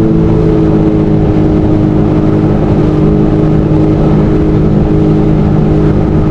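Jet ski engine running steadily under way, a loud, even drone that dips slightly in pitch about a second in.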